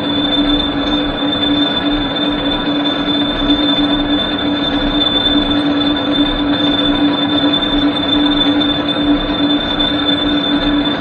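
Lathe running steadily, a constant high-pitched whine and a lower hum held over even machine noise.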